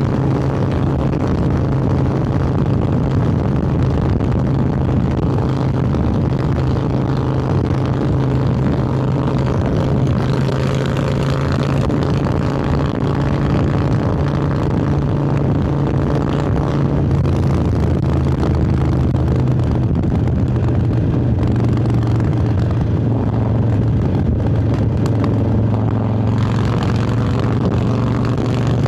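Harley-Davidson Sportster 1200 Roadster's air-cooled V-twin running at a steady pace under way, through Vance & Hines Hi-Output Grenades 2-into-2 exhaust. The engine note drops slightly in pitch a little past halfway and stays lower.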